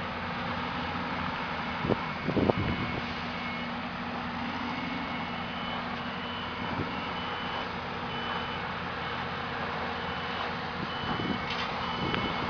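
A heavy construction vehicle's engine running steadily, with its reversing alarm beeping over and over. There are a few knocks about two seconds in.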